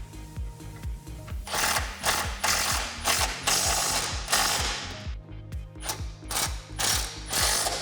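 Ratchet wrench with a socket driving an exhaust hanger or clamp bolt: a run of quick ratcheting strokes beginning about a second and a half in. Background music with a steady beat plays underneath.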